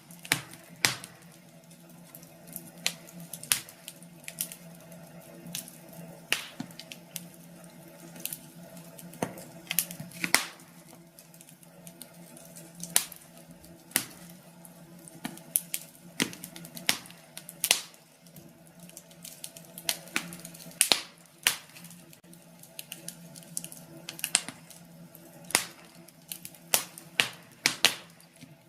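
Wood fire crackling in a fireplace: irregular sharp pops and snaps, a few a second at uneven spacing, over a faint steady low hum.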